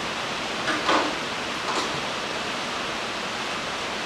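Steady hiss of rain. Two brief noises come through about one and two seconds in.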